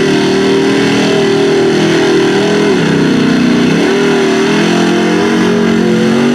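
Lifted Chevy mud truck's engine revving hard under load while running through the mud pit. The pitch dips about three seconds in, then climbs back up.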